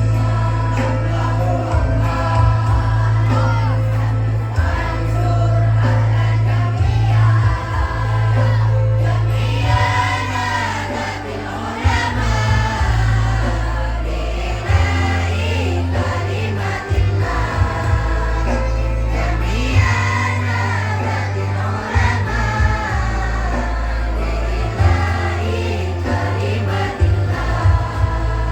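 A choir singing shalawat, Islamic devotional song, with a loud, heavy bass accompaniment.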